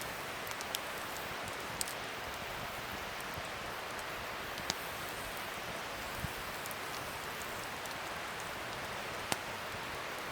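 Wood fire burning: a steady crackling hiss with a handful of sharp, separate pops, the loudest near the end.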